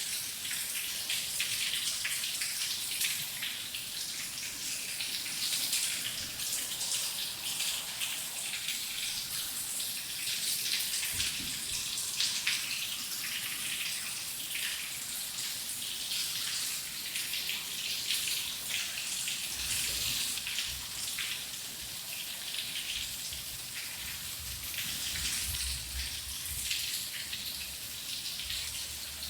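Heavy rain falling steadily: a dense hiss full of individual drop splashes. A low rumble joins about two-thirds of the way through.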